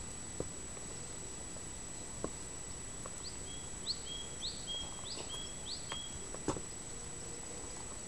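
A small bird singing a quick run of five or six repeated high notes about three seconds in, each a short upward sweep followed by a brief flat whistle, over steady outdoor background noise. A few faint sharp clicks and a thin constant high whine sit underneath.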